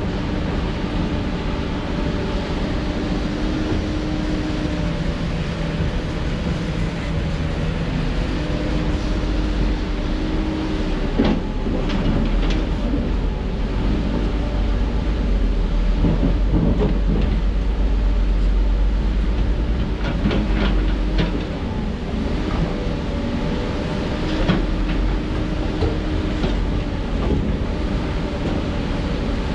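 Heavy diesel construction machinery running steadily with a deep drone, with a few sharp metallic knocks and clanks scattered through.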